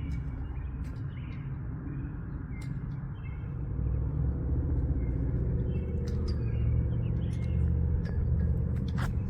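A low, steady engine rumble that grows louder about three and a half seconds in, with small birds chirping briefly over it.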